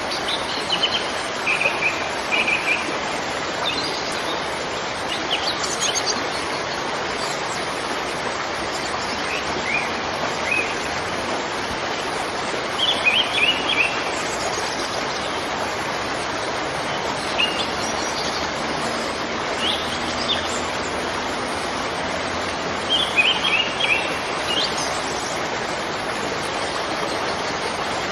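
Waterfall rushing steadily, with birds chirping in short bursts every few seconds over it.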